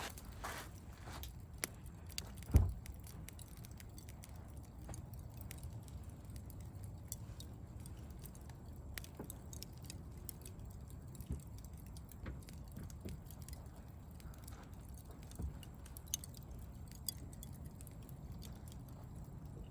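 Campfire crackling with sparse sharp pops over a low steady rumble, and one dull thump about two and a half seconds in.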